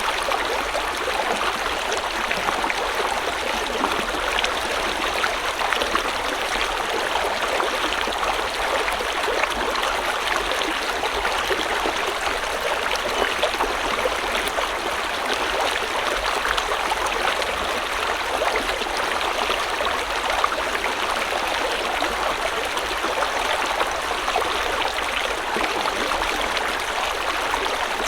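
River water flowing and babbling steadily over stones, a continuous rushing and splashing with no pauses.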